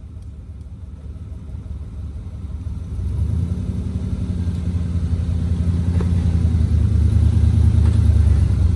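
Off-road 4x4's engine working under load at crawling speed as the rig climbs and drops over rocks, a low steady hum that swells louder about three seconds in and keeps building.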